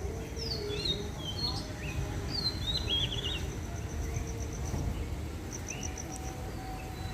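Outdoor dawn ambience: several birds give short chirps and whistles that slide in pitch, mostly in the first few seconds, while a high, rapid pulsing trill comes and goes. A steady low rumble of background noise runs underneath.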